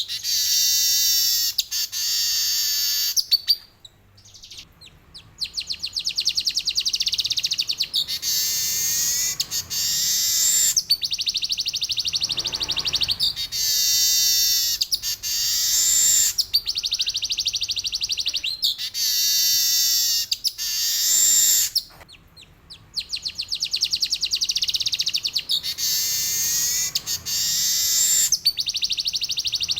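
Male manyar (weaver bird) singing its long rolling song: long, fast, buzzy trills of rapidly repeated high notes, each lasting a few seconds with short breaks. It pauses briefly twice, about four seconds in and again past twenty seconds.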